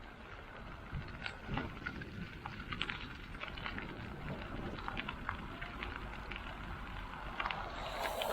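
Light rain: raindrops tapping in scattered, irregular ticks close to the microphone, over a low wind rumble. A broad hiss swells near the end.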